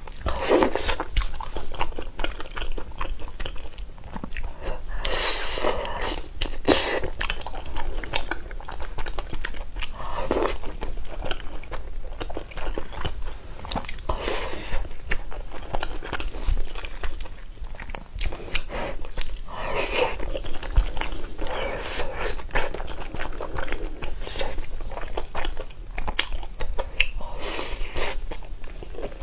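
Close-miked ASMR eating sounds: a person biting into and chewing slippery, jelly-like chunks of food in chili sauce, with many short wet clicks and smacks and louder bites every few seconds.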